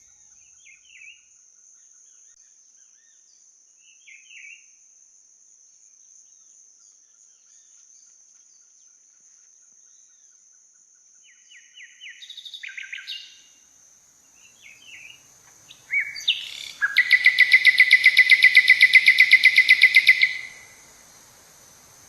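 Forest birds calling: a few short chirps and brief trills, then near the end a loud, rapid trill of evenly spaced notes lasting about four seconds. A steady high-pitched whine runs underneath.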